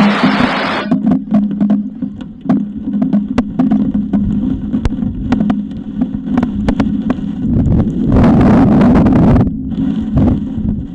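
Strong wind buffeting the eagle nest camera's microphone: a low, rumbling rush over a steady hum, with scattered crackling ticks. A louder gust sweeps through about eight seconds in and lasts a couple of seconds.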